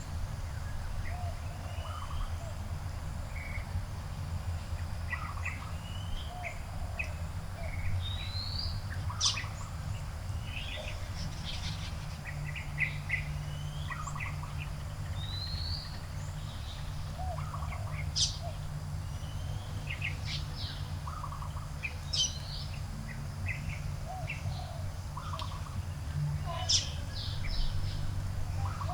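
Several garden birds chirping and calling, with short chirps and a repeated upward-sliding whistle, over a steady low rumble.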